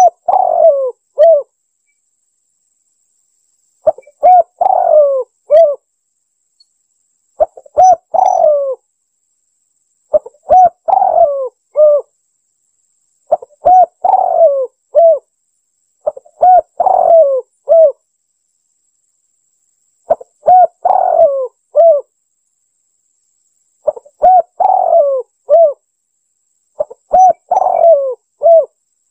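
Spotted dove (tekukur) song used as a lure call: a short phrase of a few cooing notes, repeated about every three to four seconds, nine times, with silence between phrases.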